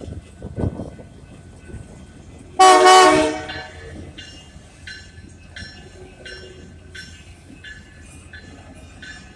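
Freight locomotive horn sounds one short blast, about two and a half seconds in, over the low rumble of a passing train. After it a bell rings steadily, about two strikes a second.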